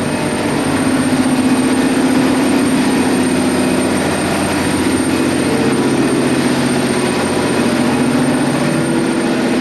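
Ship's engine-room machinery running: a loud, steady drone with several held low hums.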